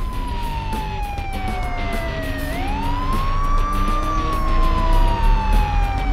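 Ambulance siren sound effect in a slow wail. Its pitch slides down, sweeps back up a little past halfway, then slides down again. Background music plays underneath.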